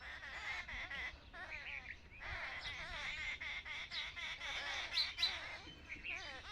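Several birds chattering, with many quick chirps overlapping one another and two sharper, louder calls about five seconds in.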